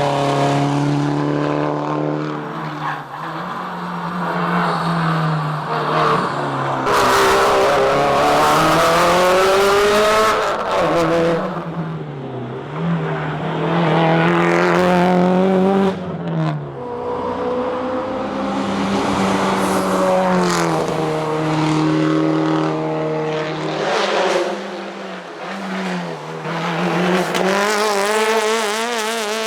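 Subaru Impreza WRX STI S204 rally car at full competition pace: its turbocharged flat-four revs up again and again, drops sharply at each gear change, then falls away under braking into corners. Road and tyre noise swells in places.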